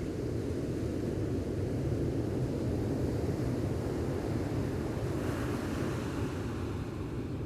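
Gentle ocean waves washing on a beach, with a steady low rumble of wind on the microphone. A wave washes in more brightly about five seconds in.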